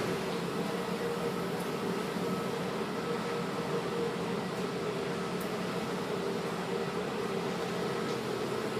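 Steady machinery drone aboard a large car ferry, the Coastal Renaissance: an even rushing hum with a few held tones in it.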